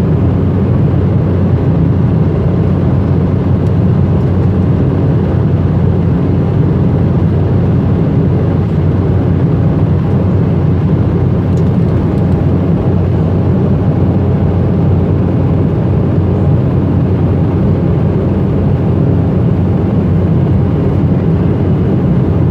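Embraer ERJ-190 cabin noise in flight: a steady, loud low rumble of the GE CF34 turbofans and airflow with a constant droning hum.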